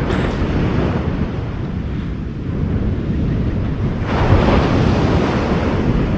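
Ocean surf washing onto a beach, with wind buffeting the microphone as a steady low rumble; a wave breaks louder about four seconds in.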